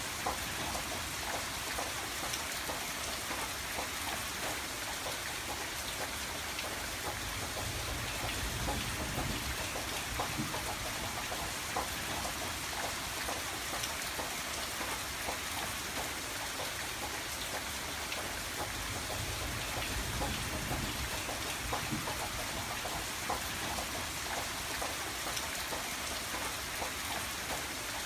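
Steady rain on a window, with many individual drops ticking against the glass. A low rumble swells and fades twice.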